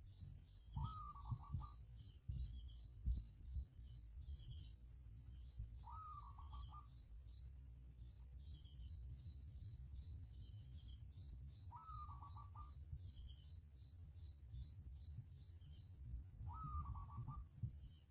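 Birds chirping in a quick, continuous chatter, with a lower call of under a second repeating four times, about every five seconds. It is faint, over a low rumble.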